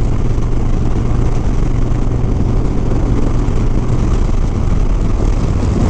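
Steady low engine rumble of an idling vehicle, even throughout with no revving.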